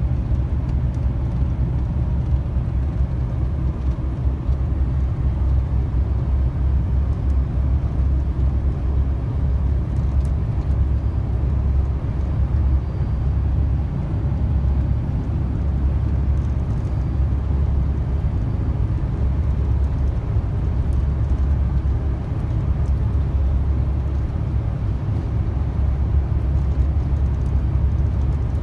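Long-haul truck driving at steady speed, heard from inside the cab: a constant low engine and road rumble.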